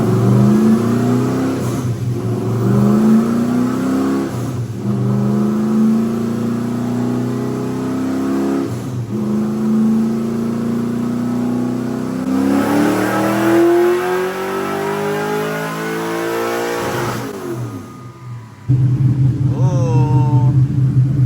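LS3 V8 in a drift car making a wide-open-throttle pull on a chassis dyno, the revs climbing with brief breaks in the sound, then rising steeply before falling back as the throttle closes. It ends on a steady loud drone. This is the run that made 482 on the dyno.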